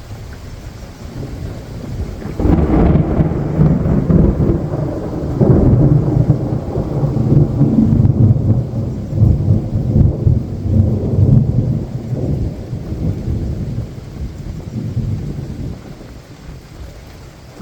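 A long roll of thunder that breaks in suddenly about two seconds in, rumbles loudly for several seconds and slowly dies away, over steady rain.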